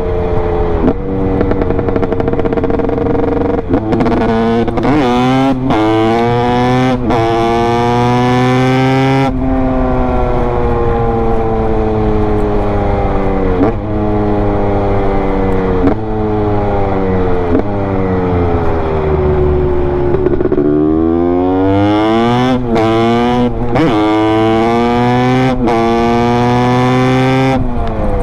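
Honda CR250 two-stroke single-cylinder engine accelerating hard through the gears, the pitch climbing and dropping back at each quick upshift. About nine seconds in the throttle closes and the revs fall away slowly for about ten seconds. It then pulls through the gears again.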